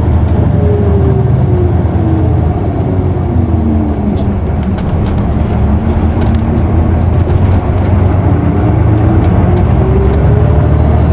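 Isuzu PKG-KV234L2 city bus heard from inside the cabin: a loud, steady diesel drivetrain rumble with a whine that drops in pitch over about five seconds and then climbs back as the bus picks up speed again. Faint rattles and clicks come through in the middle.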